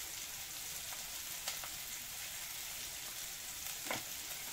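Food frying on a gas stove, a steady low sizzle, with a couple of faint light taps.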